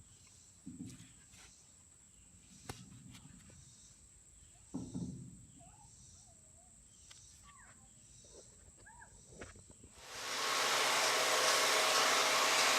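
Faint clicks and handling sounds, then about ten seconds in a drum-style wood chipper's engine comes in loud and steady, running.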